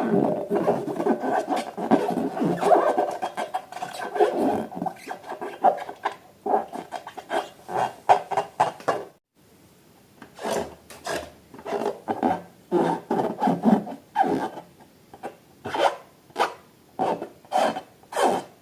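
Balloons and slime being handled, rubbing against each other. There is a dense stretch of continuous rubbing at first, then a short break to silence about nine seconds in. After that comes a run of short separate rubbing strokes, about two a second.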